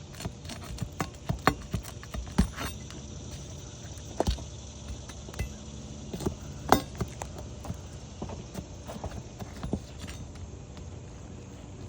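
Irregular sharp clicks and metallic knocks of a tool working roofing nails loose from under asphalt shingles on a roof.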